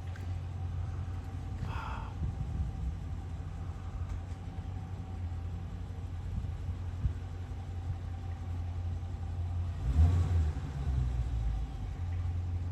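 Steady low outdoor rumble, with a short higher-pitched sound about two seconds in and a louder low bump about ten seconds in.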